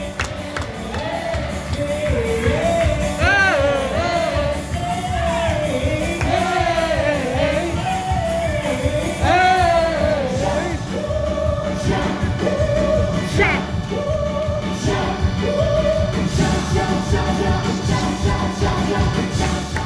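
Live band music with a lead singer: a sung melody over drums and backing instruments, with a steady beat.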